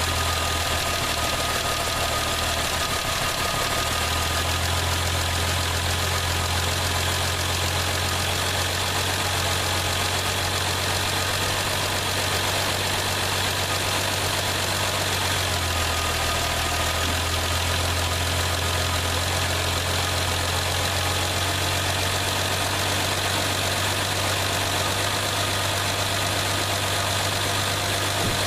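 Chrysler Slant Six engine of a 1973 Plymouth Valiant idling steadily shortly after a cold start, with the automatic choke holding it. The pitch shifts slightly a few seconds in and again about halfway through.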